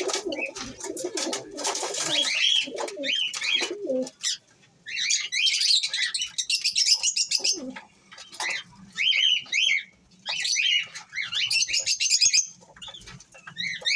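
Pigeons cooing, low and throaty for the first few seconds, mixed with repeated bursts of high, quick chirping from birds calling in clusters.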